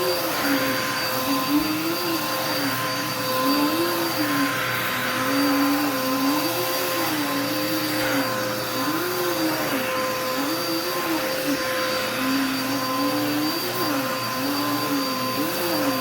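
Vacuum cleaner running steadily, a constant motor whine over a rush of air, with a lower pitch that rises and falls about once a second as it cleans the floor.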